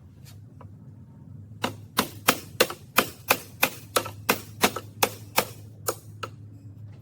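A hand tool working on a trike's rear axle during reassembly makes a run of about fourteen sharp, evenly spaced clicks or knocks, roughly three a second. The run starts about a second and a half in and stops near the end.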